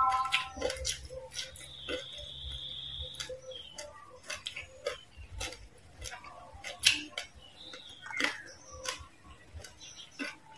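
Close-miked chewing of crispy fried frog and salad: irregular crunches, crackles and wet mouth clicks, with a fresh bite near the end.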